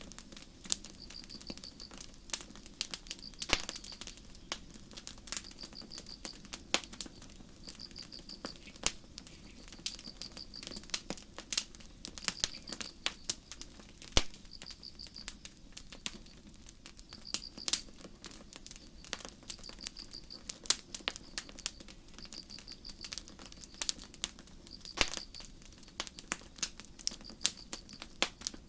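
Campfire crackling, with sharp irregular pops from the burning wood, while crickets chirp in short high pulsed chirps every one to two seconds.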